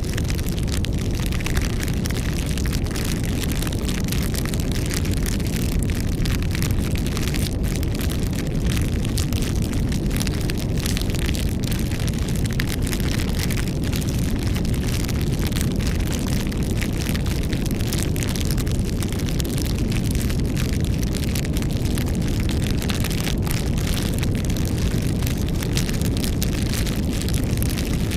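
Campfire burning, with many small crackles and pops over a continuous low rumble.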